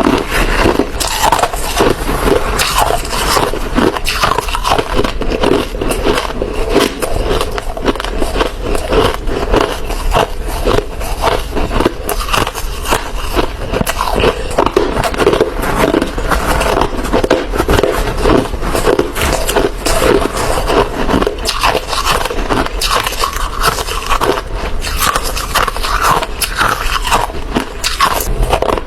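Hard ice being bitten and chewed: loud, continuous crunching and crackling with no pauses.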